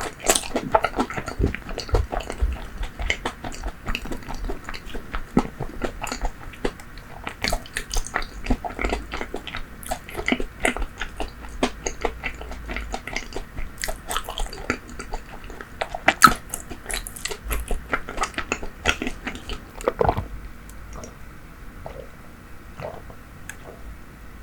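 Close-miked biting and chewing of food, with dense sharp crackles and crunches, growing sparser and quieter in the last few seconds.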